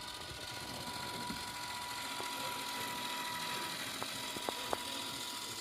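A small motor running steadily with a thin high whine that fades out a little past halfway, then three light clicks.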